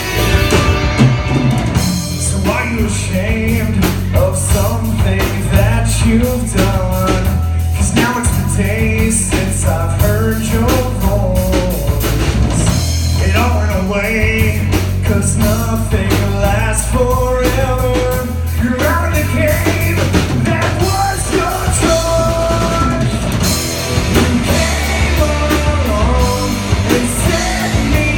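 A rock band playing live, with a singer over electric guitar, bass and drum kit.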